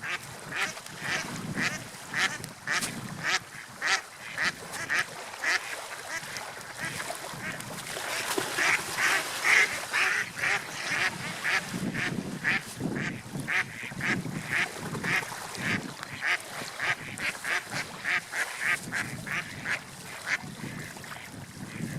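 Birds calling in a fast, steady series of short repeated calls, about two to three a second and busiest a third of the way in, over a steady wash of water or wind.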